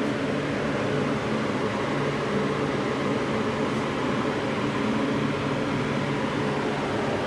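Steady mechanical drone with a constant low hum and an even whirring hiss, holding one pitch throughout.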